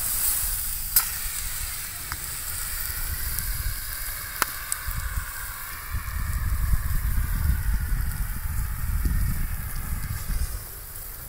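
Burning lawnmower hissing and sizzling, with a couple of sharp pops and a low rumble that grows louder in the second half.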